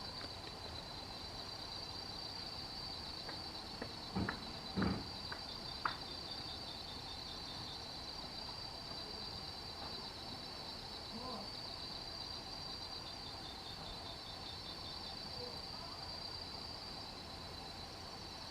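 Steady, high-pitched night insect chorus, a cricket-like trill that runs on without a break. A few short thumps sound about four to six seconds in.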